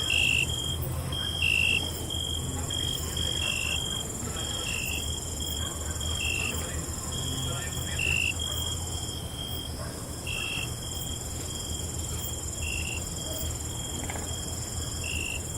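Night crickets chirping: short high chirps repeating about once a second over a steady high-pitched insect trill, with a low rumble beneath.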